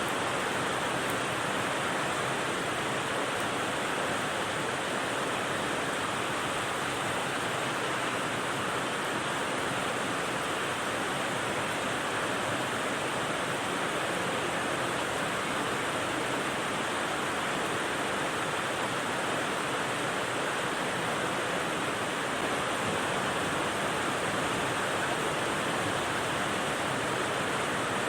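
Rain-sound white noise: an even, unbroken hiss with no distinct drops or changes.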